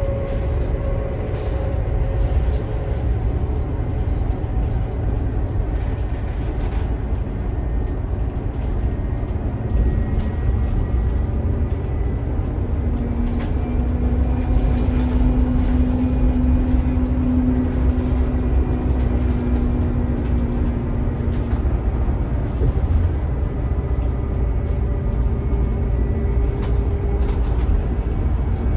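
Scania DC9 five-cylinder turbo diesel and ZF Ecomat six-speed automatic of a 2012 Scania K280IB coach running under way: a steady low drone with held whining tones that come and go, one stronger from about halfway through, and occasional light rattles.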